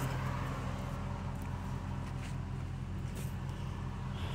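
A steady, low mechanical hum with an even pitch, like a motor or engine running at a constant speed.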